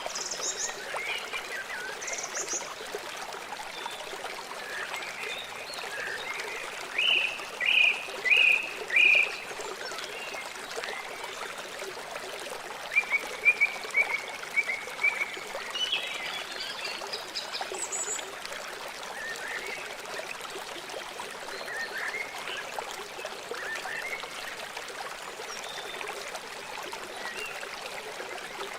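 River water flowing steadily in an even rushing hiss, with short animal calls chirping over it. The loudest calls are a run of four about seven to nine seconds in, followed by a quicker series a few seconds later.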